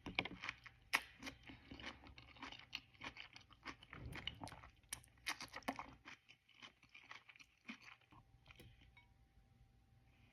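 Close-up chewing of a mouthful of raw zucchini-noodle spaghetti, with wet crunches and mouth clicks coming thick and fast at first, then thinning out and growing quieter in the last few seconds.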